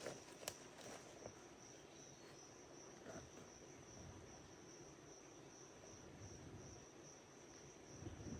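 Forest insects, crickets or similar, chirping faintly in a steady high pulsing trill, with a sharp click about half a second in and a few faint knocks.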